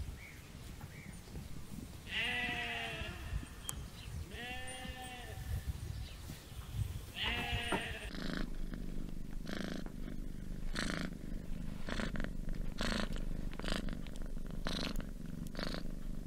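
Sheep bleating three times, each call about a second long and wavering, then a domestic cat purring, a steady low rumble that pulses with its breathing, from about halfway in.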